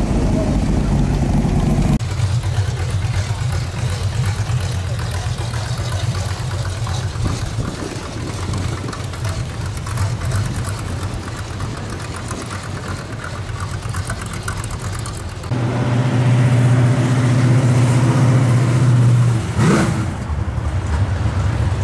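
V8 engines of a string of hot rods and muscle cars running as they drive past: a red 1930s-style street rod, then a fourth-generation Pontiac Trans Am, then a 1968-style Chevelle with a deep, even exhaust note. Near the end there is a brief rise and fall in pitch.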